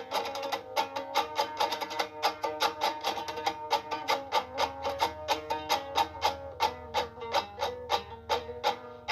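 Music: a plucked string instrument playing a fast, evenly picked run of notes.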